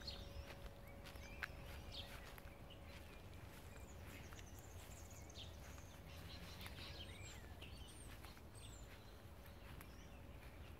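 Quiet garden ambience: faint bird chirps here and there over a low background rumble, with a faint steady hum.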